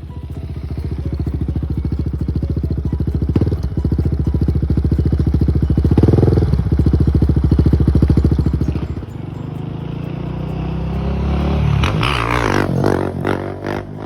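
KTM 690 SMC-R's single-cylinder engine running through a Leo Vince exhaust with a fast, even thumping beat, getting louder over the first few seconds. About nine seconds in it drops back, and near the end the pitch rises and falls as the engine revs.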